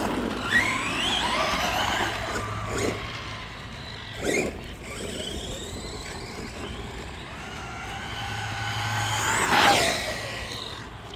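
Arrma 4x4 3S brushless RC truck driving: the electric motor and drivetrain whine, rising and falling in pitch with the throttle, loudest about a second in and again near the end. There is a short knock about four seconds in.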